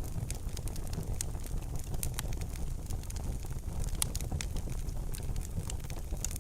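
Wood fire crackling in a fireplace: frequent sharp pops and snaps over a steady low rumble, with a louder pop about four seconds in.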